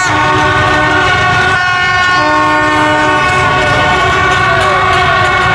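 Many horns blaring at once, overlapping long steady tones at different pitches that stop and start, over a dense low rumble of engines in a street celebration crowd.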